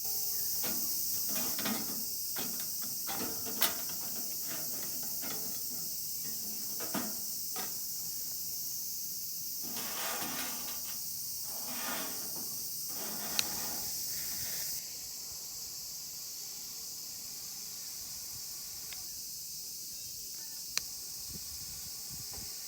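A wood fire crackling with irregular snaps and a few sharp pops over a steady high insect chorus. About two-thirds of the way through the crackling drops away, leaving the insect hiss and an occasional pop.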